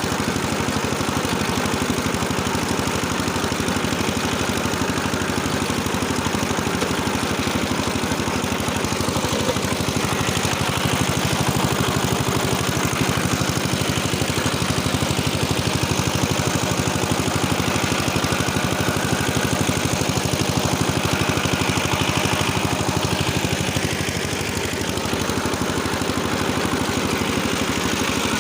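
Small engine running steadily with a fast, even beat as it drives a rotary tiller through the soil, easing slightly for a moment near the end.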